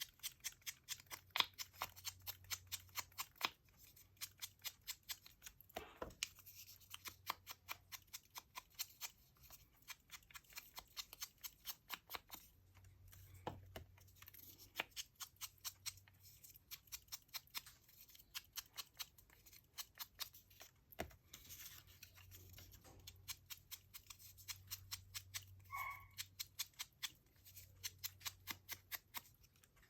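Scissors snipping through paper in quick, steady cuts, about three snips a second, in runs with short pauses, as the paper is trimmed around its edges.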